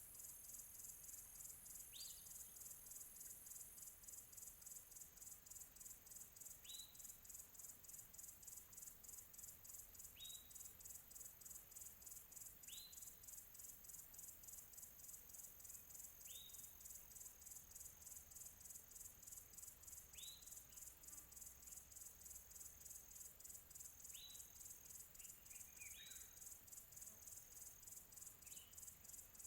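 Faint chorus of crickets chirping in a steady, rapidly pulsing high-pitched trill. A distant bird gives a short rising call note about every two to four seconds.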